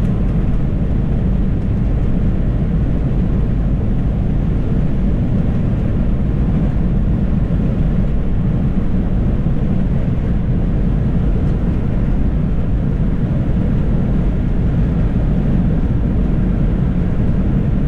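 Steady road and engine noise inside a car's cabin while driving at speed.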